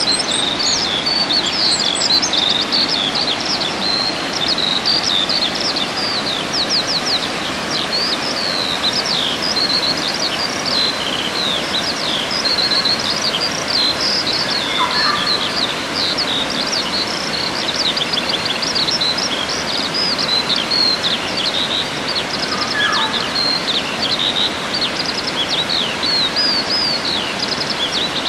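A chorus of small songbirds chirping and trilling continuously in quick, high notes, with a few lower calls now and then, over a steady rushing background noise.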